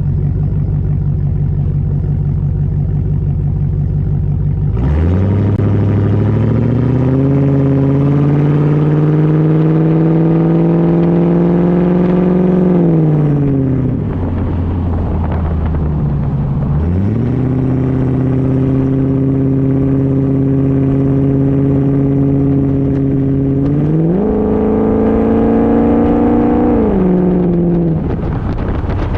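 Land Rover Defender 90's V8 engine through a full custom exhaust, idling, then run up to higher revs and held there. It drops back to idle about 14 seconds in, then revs up again and holds, climbing higher again about 24 seconds in, before settling back to idle near the end.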